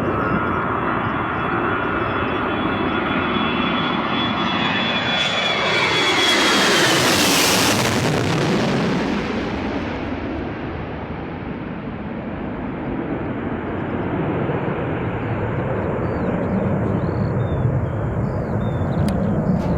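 A large fixed-wing aircraft flying overhead. Its engine whine glides down in pitch as it passes, loudest about seven seconds in, then gives way to a steady, fading rumble.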